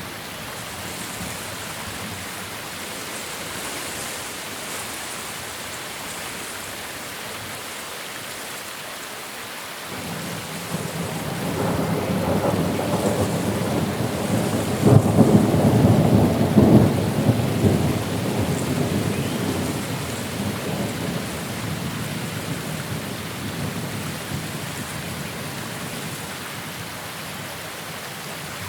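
Thunderstorm: steady rain with a long, rolling peal of thunder that swells from about a third of the way in, is loudest near the middle and slowly dies away.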